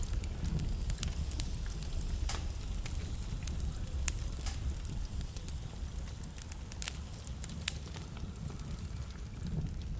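Wood fire burning in a fireplace, the burning logs crackling and popping at irregular moments over a steady low rumble of the flames.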